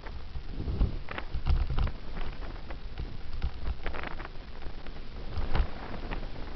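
Wind buffeting a helmet-mounted camera's microphone as a bicycle coasts downhill, a low rumble that swells and eases, with irregular clicks and rattles from the bike and camera over the road surface.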